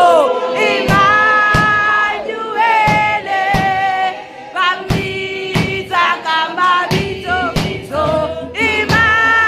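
Gospel singing: voices holding long, wavering notes over a steady beat of about one and a half hits a second.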